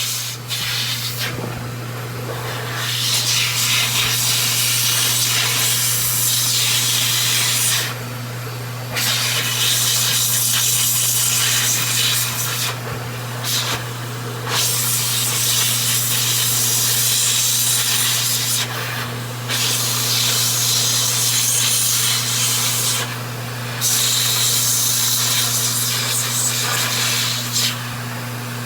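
Small pet dryer blowing air through freshly washed clipper blades to clear out water and hair: a loud rushing hiss that drops out briefly every few seconds as each blade is moved under the nozzle, over a steady low motor hum.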